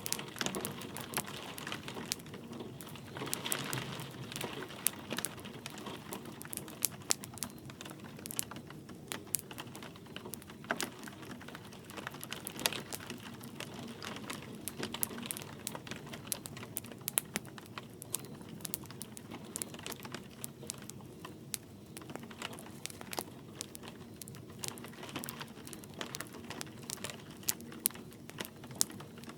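Wood fire crackling in a fireplace, with many irregular sharp pops and snaps over a soft steady hiss of light rain.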